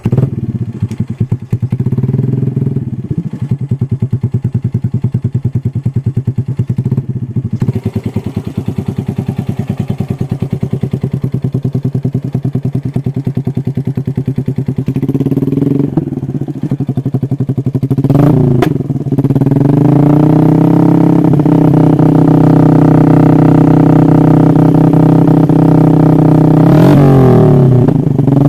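Yamaha Jupiter four-stroke single-cylinder underbone motorcycle through an Austin Racing aftermarket exhaust, starting up and idling with an even pulsing beat. It is blipped a few times midway, then held at higher revs for several seconds, with a quick rev up and down near the end.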